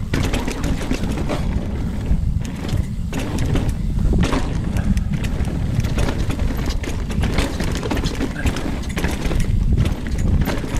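Commencal Meta AM 29 mountain bike descending a rough, rooty trail, heard from a chest-mounted camera: a steady rumble of wind and ground noise with frequent rattling knocks of the chain, frame and tyres striking roots and rocks.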